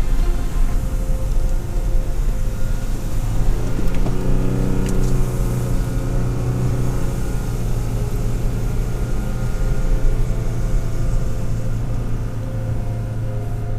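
Toyota Tacoma pickup driving through snow, its engine running steadily under load. The engine note firms up about four seconds in.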